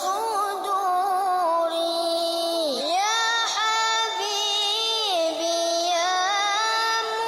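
Background music: a high voice singing a slow melody, holding long notes with gliding pitch.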